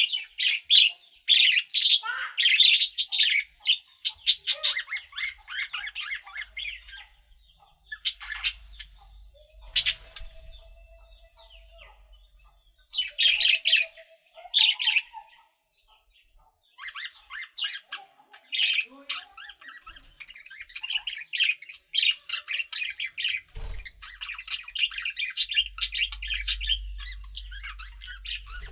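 Budgerigars chirping and warbling: bursts of short, high chirps and squawks with brief pauses, turning into steady chatter over the last third, with a single sharp click about two-thirds through.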